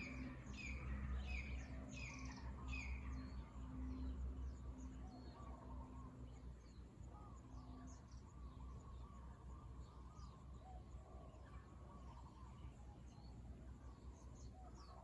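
Birds chirping: a quick run of short falling chirps in the first few seconds, then scattered calls, over a faint steady low background noise.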